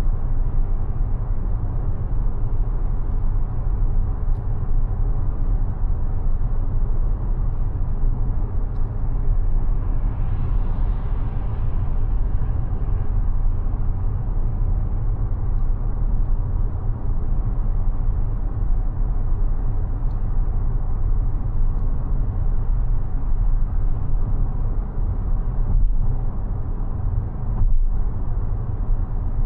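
Steady low road and tyre rumble of a Mazda 6e electric sedan being driven, with a brief swell of hiss about ten seconds in.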